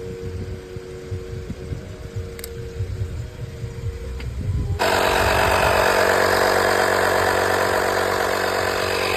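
A low, uneven rumble, then about five seconds in a portable tire air compressor switches on abruptly and runs with a loud, steady buzzing drone.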